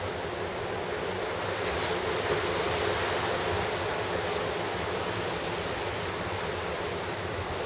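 Pacific Ocean surf crashing in a steady wash of noise, swelling a little about two seconds in as a wave breaks.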